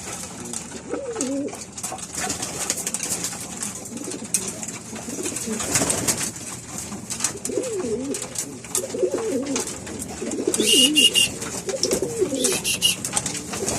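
Domestic pigeons cooing over and over, each coo a low wavering call, with scattered scratchy clicks and a few short high-pitched peeps in the second half.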